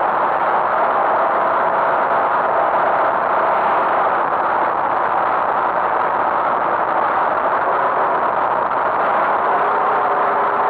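Tractor engine running steadily with a constant noisy drone and a faint hum on top, unchanging throughout.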